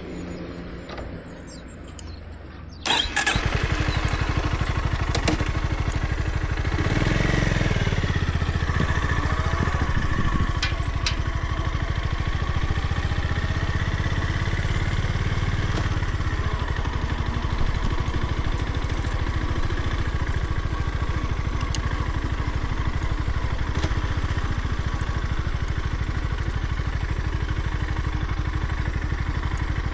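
Honda GB350's air-cooled single-cylinder engine starting up about three seconds in, then idling steadily with a low, even thump, with a brief swell in level a few seconds after it catches.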